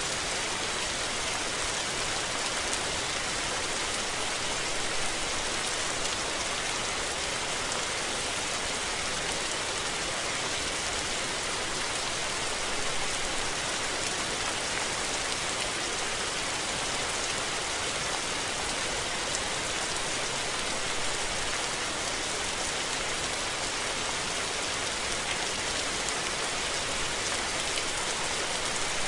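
Steady rain falling on surfaces, a dense even hiss with fine drop patter.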